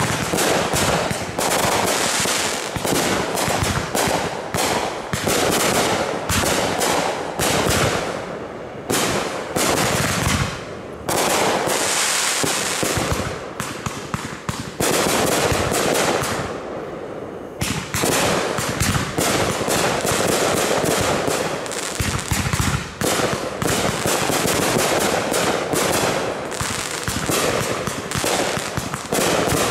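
Aerial fireworks display going off: a rapid, dense run of bangs and pops, with short lulls about nine and sixteen seconds in.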